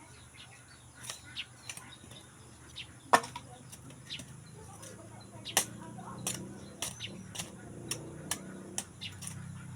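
Pieces of firewood knocking and clicking together as they are gathered up, in irregular sharp knocks, the loudest about three seconds in and again a couple of seconds later.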